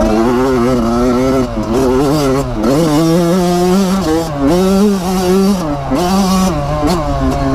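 Dirt bike engine running under throttle while riding, its pitch rising and falling with the throttle, with a sharp drop about three seconds in.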